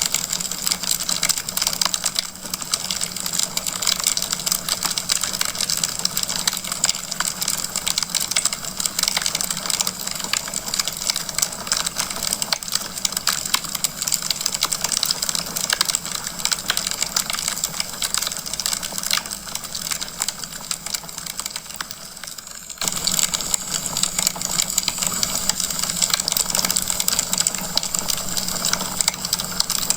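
Wood fire crackling: a dense, continuous run of small pops and snaps from burning logs. About three-quarters of the way through it dips briefly, then comes back abruptly at full level.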